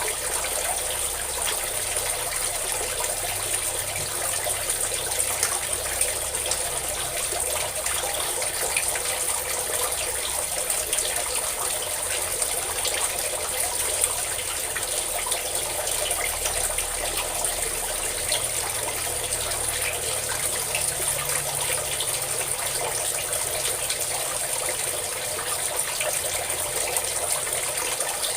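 Water pouring or gushing steadily, a constant splashing noise without pauses.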